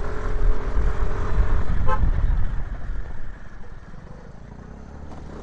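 Road noise from riding a scooter: a steady low rumble, with a short horn toot about two seconds in. The noise drops off after about three seconds.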